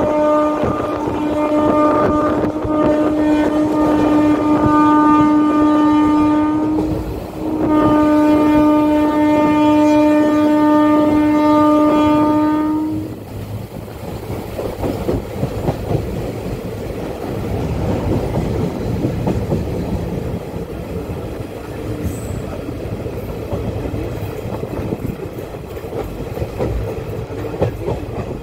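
A train's horn sounds two long, steady single-note blasts, with a short break between them, over the rumble and clickety-clack of coach wheels on the rails. The horn stops about 13 seconds in, leaving the wheels and rail joints rattling as the train runs on at speed.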